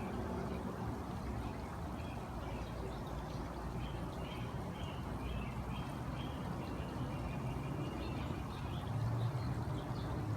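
Small birds chirping in short, high, repeated notes over a steady low background rumble that grows a little louder near the end.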